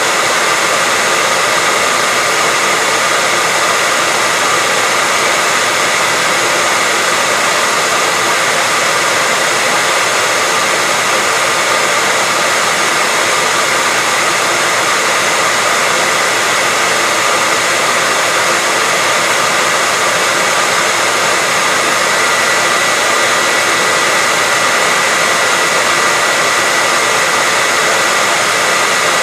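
Hair dryer running steadily: a continuous even airflow hiss with a faint motor whine, unchanging, played as white noise.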